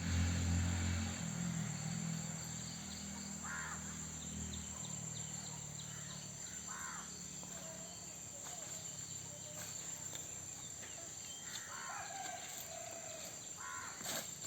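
Outdoor ambience: a steady high-pitched insect drone, with a bird giving short harsh calls four or five times. A low hum fades out in the first few seconds.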